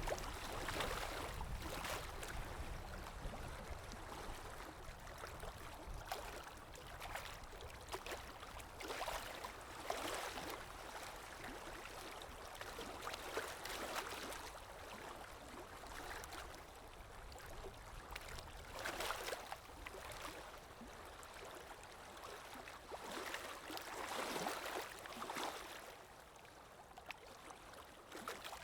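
Calm sea waves washing in, a soft continuous wash that swells and fades every few seconds.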